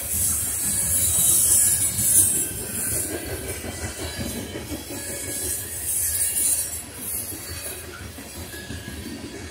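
Covered hopper grain cars of a freight train rolling past: a steady rumble of steel wheels on the rails with a high hiss from the wheels, loudest in the first two seconds and again around six seconds in.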